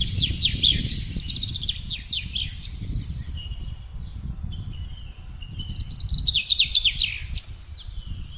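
Songbirds singing in two bouts of quick, falling notes, each about two seconds long, over a steady low rumble of wind.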